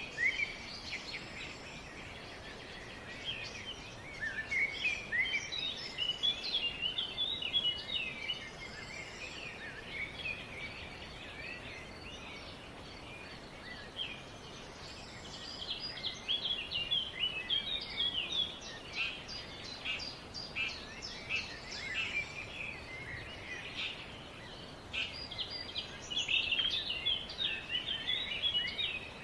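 Several small songbirds chirping and twittering in quick, high notes, in bouts of a few seconds with quieter gaps between, over a faint steady background noise.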